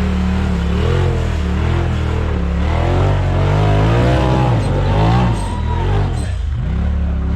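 Off-road vehicle's engine running and revving, its pitch rising and falling several times in the middle.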